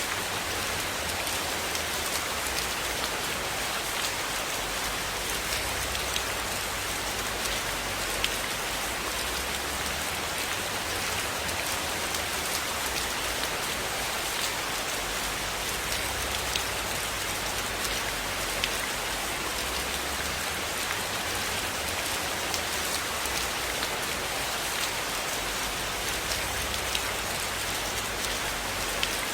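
Steady rain falling on a surface in an even hiss, with scattered sharp ticks of individual drops and a faint low rumble underneath.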